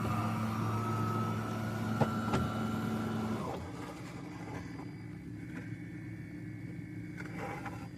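An automatic espresso machine runs with a steady, even-pitched motor or pump hum, with a couple of clicks partway through. The hum cuts off about three and a half seconds in.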